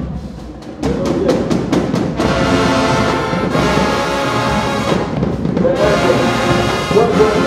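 High school marching band striking up: a run of sharp drum hits about a second in, then loud held brass chords, with a brief break partway through.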